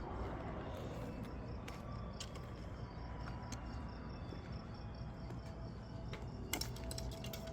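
Insects chirping in a faint, evenly pulsing high trill, with scattered light clicks over low background noise.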